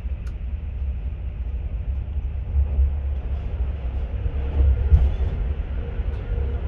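Steady low rumble of a Class 43 HST train running on the line, with a few faint clicks.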